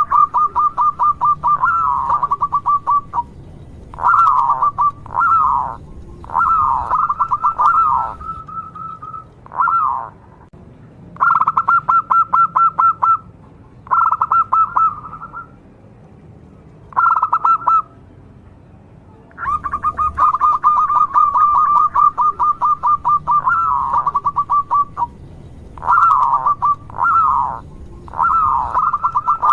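Zebra dove (perkutut) singing: repeated bouts of fast, rolling cooing trills, each a second to several seconds long, with short pauses between them.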